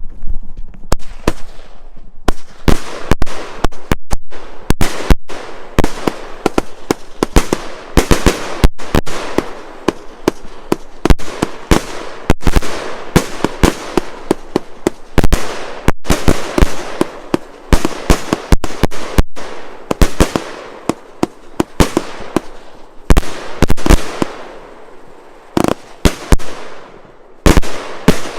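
Multi-shot firework, the Ghost by Classic Fireworks, firing a long rapid run of sharp bangs and pops with a continuous noisy fill between them. The shots thin out and grow quieter over the last few seconds.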